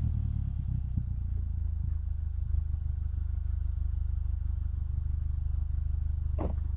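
Vehicle exhaust at idle: a steady low, pulsing burble after the engine settles from a rev. A short sharp click near the end.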